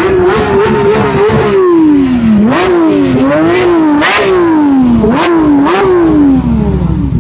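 A high-performance engine revved in repeated throttle blips: the pitch jumps up sharply and sinks away slowly, about six times, with several sharp cracks along the way.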